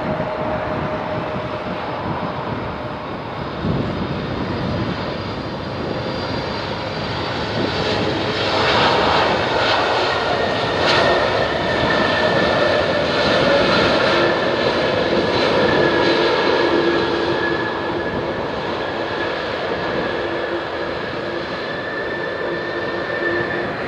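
Airbus A300-600ST Beluga's two turbofan engines on its landing pass, a steady jet roar with a whining tone. It swells to its loudest about a third of the way in and eases off again over the last several seconds.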